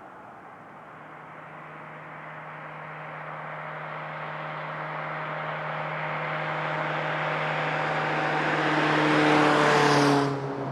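A road vehicle approaching on a highway, with tyre and engine noise growing steadily louder for about ten seconds. It passes close near the end, and its engine note drops in pitch as it goes by.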